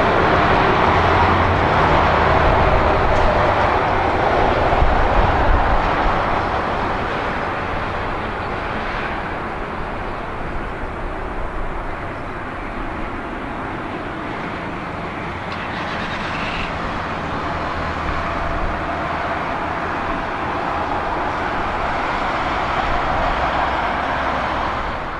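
Jet engine noise from a landing Boeing 777-300ER's twin GE90 turbofans, a steady rumble with a low hum that is loudest for the first six seconds or so and then eases to a lower, even level.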